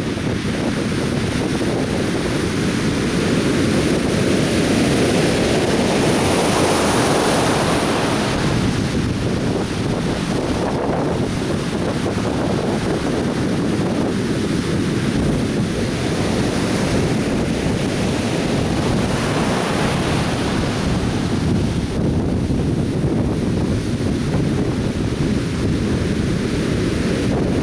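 Atlantic surf breaking and washing up a beach, a steady roar of waves that swells and eases, with wind buffeting the microphone.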